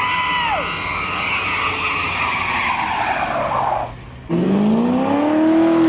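Tires squealing in a burnout with the engine held at high revs for about four seconds. After a short break an engine revs up and drops back once.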